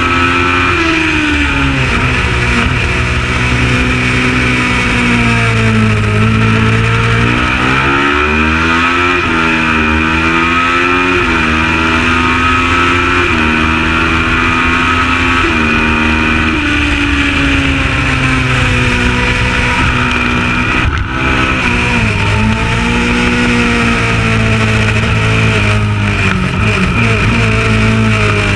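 Kawasaki ER650 Supertwin race motorcycle's parallel-twin engine under racing load. The revs climb through a series of quick upshifts, then fall away as it shifts down, several times over.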